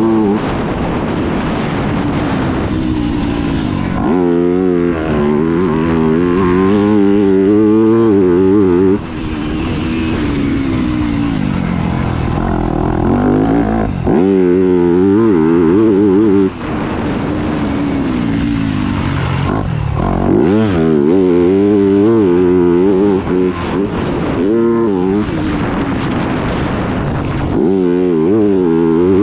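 Yamaha YZ250F's 250cc four-stroke single-cylinder engine being ridden hard, revving up and backing off over and over, with its pitch climbing and dropping sharply between throttle openings and brief dips at the shifts.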